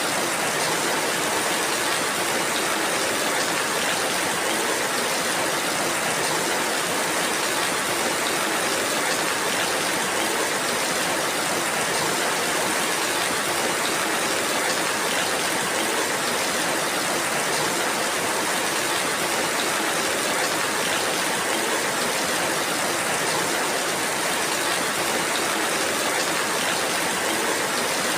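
Steady rain falling, an even hiss with no separate drops, thunder or other events standing out.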